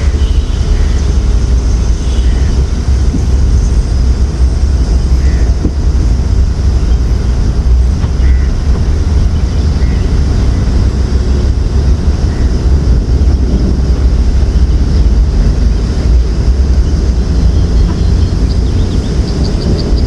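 Loud, gusty rumble of wind buffeting the microphone throughout, with faint short bird chirps near the end.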